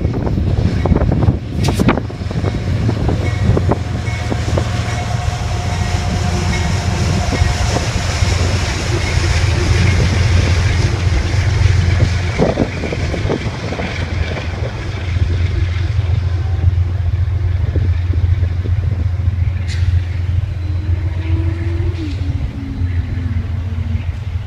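Amtrak passenger train's diesel locomotive running, a steady low rumble.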